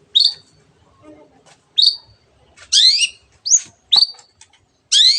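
Long-tailed shrike (cendet) giving short, harsh, upward-sweeping calls, about six of them at irregular spacing, the loud excited 'teot teot' calling that keepers play to rouse their own shrikes.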